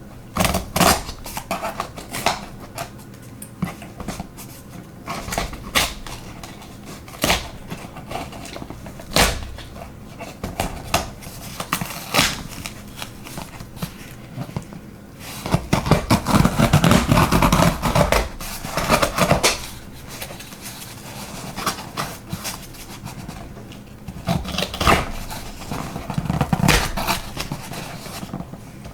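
Hands opening and handling a cardboard shipping box: scattered knocks and taps, with a dense stretch of rustling packaging about halfway through.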